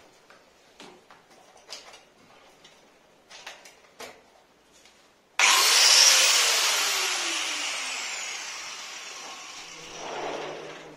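A handheld power tool, likely an electric cutter or grinder, switches on suddenly about halfway through with a loud high whine. It is let go and spins down, its pitch falling and its sound fading over about five seconds. Light handling clicks come before it.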